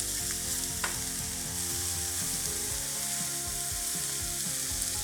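Chicken thigh pieces frying in a pan, with a steady sizzle; the pieces are getting overcooked to a char. A single light tap sounds a little under a second in.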